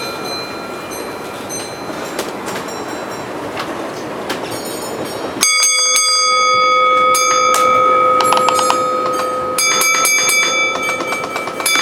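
Model railway layout running amid a noisy hall. About five seconds in, a steady, high ringing tone with several pitches starts abruptly and holds for several seconds, with rapid clicks over it; a fresh set of tones comes in again near the end.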